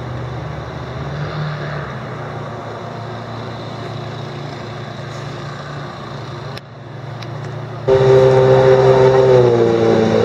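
Motorboat engine running steadily. About eight seconds in, a much louder engine note cuts in and eases slightly lower in pitch.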